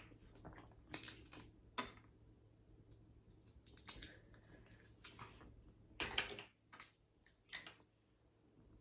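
Seafood shells being cracked and peeled by hand: a handful of irregular sharp clicks and crackles, with the longest crackle about six seconds in.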